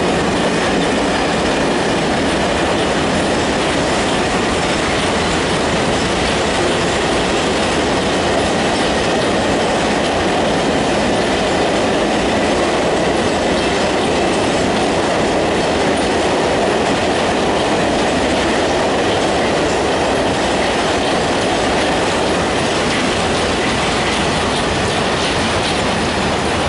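A long freight train's wagons rolling past, wheels clattering over the rail joints, with a thin steady squeal from the wheels on the rails.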